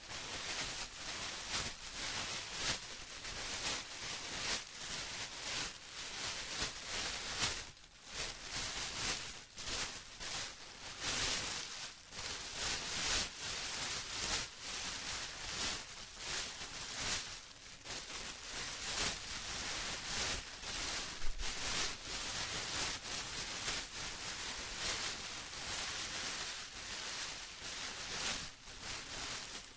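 Plastic being crumpled and rustled continuously, a dense irregular crackle that swells and eases without a steady rhythm, with brief lulls.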